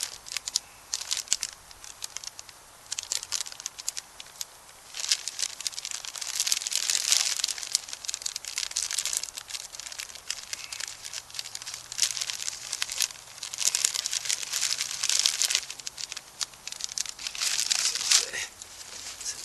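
Irregular bursts of crinkling and rustling, each lasting a second or two, with quieter gaps between.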